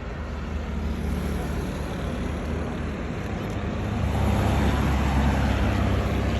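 A motor vehicle's engine running steadily with a low hum, growing louder about four seconds in.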